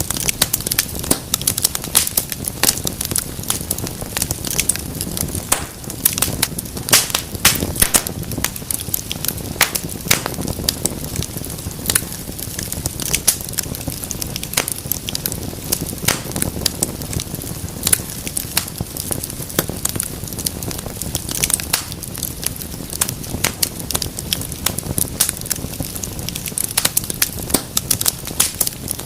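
Wood fire burning in a fireplace, crackling and popping irregularly over a low steady rumble of flame.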